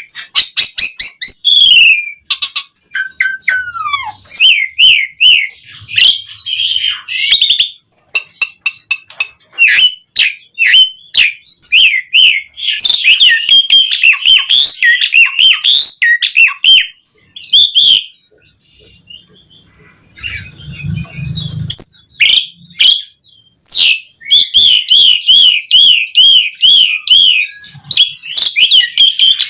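Asian pied starling (jalak suren) singing a long, varied song of rapid clicking runs, warbled trills and gliding whistles, with short pauses between phrases. The song is rich in mimicked phrases. A brief low rumble comes about two-thirds of the way through.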